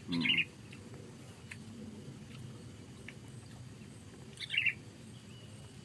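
A bird giving short, high chirps, once near the start and again about four and a half seconds in, over a quiet outdoor background.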